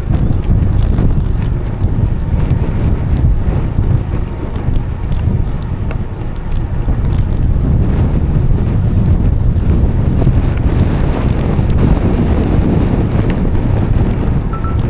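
Wind buffeting the microphone of a camera on a moving bicycle: a loud, steady, low-pitched rush that eases briefly about four to six seconds in.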